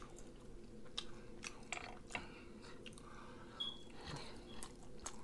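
Close-miked mouth sounds of a man chewing lemon-pepper rotisserie chicken: soft, scattered wet clicks and smacks.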